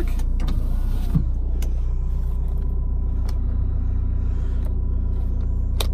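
Renault Scenic 1.9 diesel engine idling steadily, heard from inside the cabin, with a single sharp click near the end.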